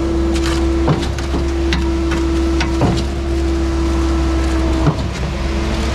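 Skid-steer-powered concrete pump running: a steady engine and hydraulic drone with a hum, and a sharp knock about every two seconds as the pump cycles its strokes.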